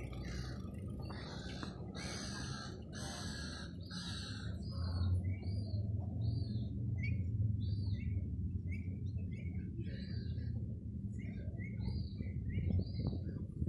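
Birds calling: a run of about five harsh calls in the first four seconds, then many short repeated chirps, over a steady low rumble.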